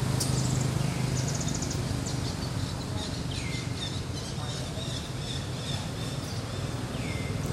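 Birds chirping in forest, with a short rapid trill about a second in and two calls sliding down in pitch, about three and a half and seven seconds in, over a steady low hum.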